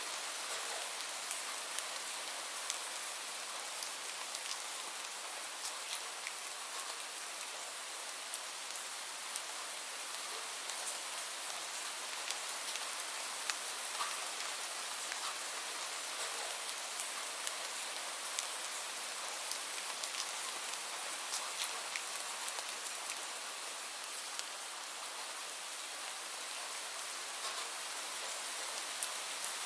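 Steady rain falling, an even hiss with many sharp individual drop ticks scattered throughout, and no thunder.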